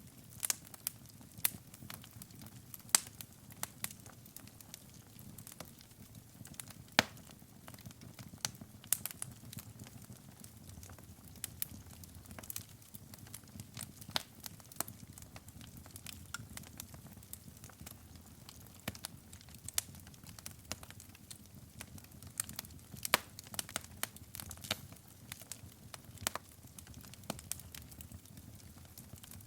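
Wood fire burning in a fireplace: a soft low rumble of flames with irregular crackles and sharp pops of burning logs.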